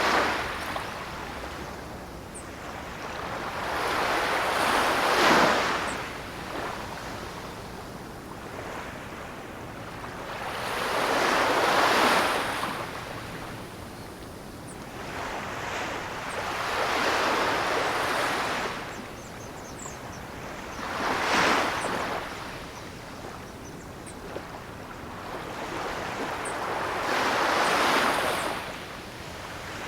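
Ocean waves breaking and washing up the shore in slow surges, one swelling and fading about every five to six seconds over a steady wash of surf.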